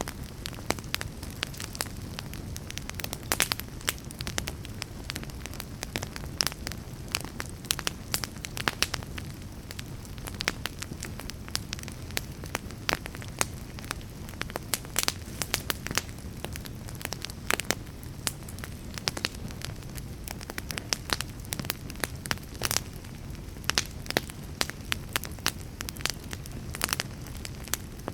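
Wood fire crackling, with frequent irregular sharp pops and snaps over a steady low rumble of flames.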